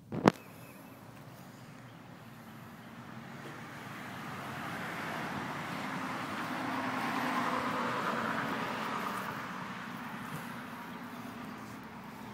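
Caterpillar 140H motor grader's diesel engine running, swelling to its loudest about halfway through and then easing off. A sharp click just at the start.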